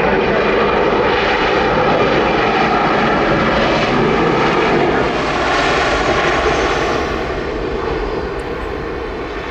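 Airliner engine noise, loud and steady, dropping away over the last couple of seconds as the aircraft moves off.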